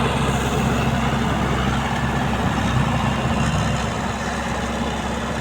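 MTZ-82 (Belarus) tractor's four-cylinder diesel engine running steadily at a low, even speed.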